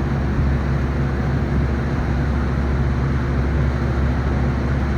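Steady machine drone at constant speed: a low hum with an even hiss over it, typical of a large fan running continuously.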